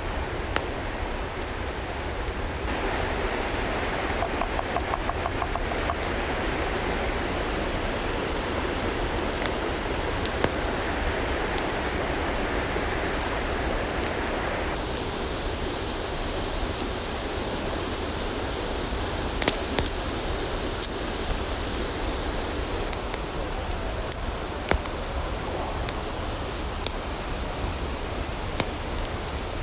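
Steady rushing of a river, with scattered sharp cracks over it. The tone of the rush changes abruptly a few times.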